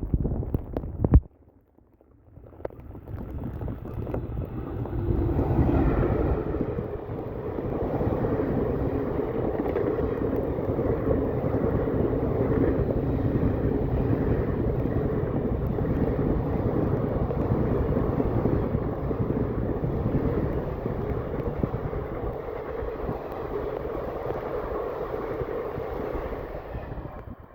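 An Indian express train running past at speed, with a steady rumble of wheels on the track that lasts about twenty seconds and cuts off near the end. It starts with a short, sharp knock about a second in, the loudest moment, then a brief pause, and the rumble builds over a few seconds.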